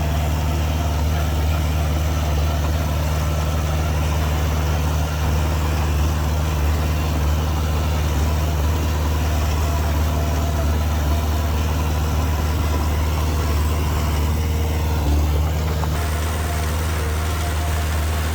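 Heavy machinery diesel engine running steadily with a deep, even drone.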